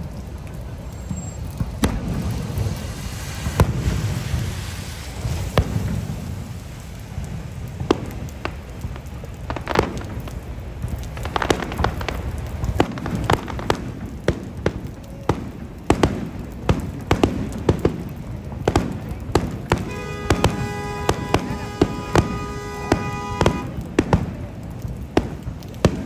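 Fireworks display going off: a long run of bangs and pops, irregular and often in quick clusters, over a continuous low rumble. About twenty seconds in, a steady pitched tone is held for about three and a half seconds.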